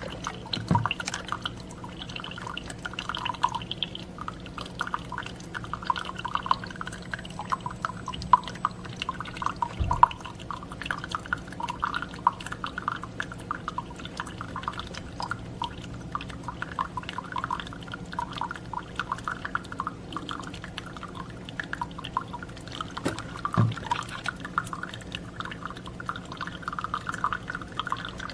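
Keurig K-Supreme Plus single-serve coffee maker brewing: a steady stream of coffee pouring and dripping into a cup over a low steady hum, with a few soft knocks.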